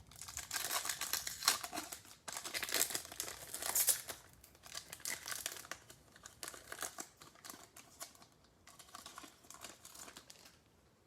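Foil trading-card pack wrapper crinkling and tearing as it is handled, loudest in the first few seconds and then softer crackling.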